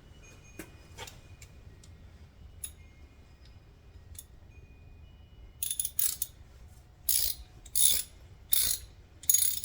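Metal lock and door hardware being worked by hand: a few light clicks, then from about halfway through a run of short rasping strokes, roughly one every 0.7 s, like a ratchet or a tool turning a fastener.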